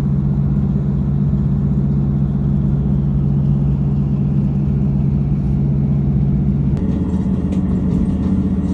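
Diesel passenger train running: a steady low engine drone with rumble, whose pitch shifts about seven seconds in.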